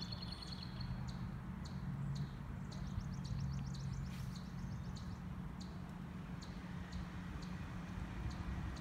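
Birds chirping in short, repeated high calls over a low, steady hum.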